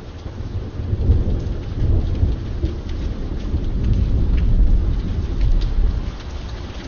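A long roll of thunder rumbling over steady rain. It swells about a second in and again midway, then eases near the end, while scattered raindrops tick throughout.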